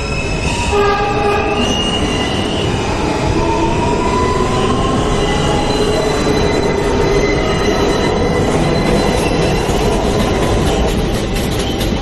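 Subway train running between stations, heard from inside the car: a steady rumble of wheels on the track, with high squealing and whining tones over it, one sliding upward in pitch a few seconds in.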